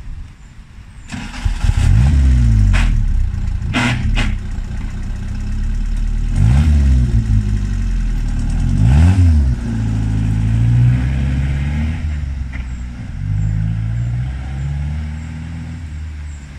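Austin Seven hill-climb special's engine starting about a second in, then revved up and down three times with a few sharp cracks around the early revs. It then runs steadier and fades as the car pulls away.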